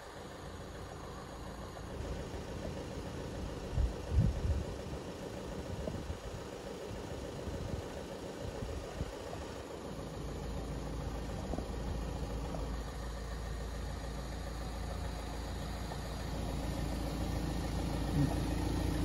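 Vehicle engine idling: a steady low rumble that grows stronger about halfway through, with a couple of dull knocks about four seconds in.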